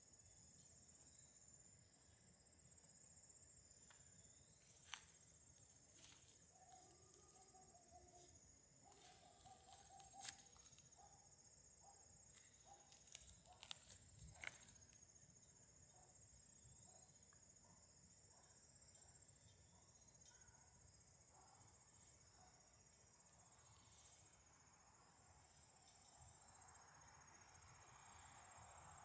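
Faint crickets chirping steadily in a continuous high trill, with a few sharp clicks in the middle.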